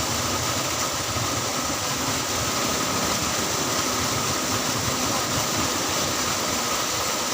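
Motorcycle engine running while riding, under a steady rush of wind and road noise on the microphone.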